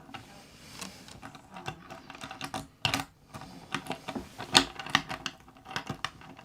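A run of irregular small clicks and taps, the loudest about four and a half seconds in.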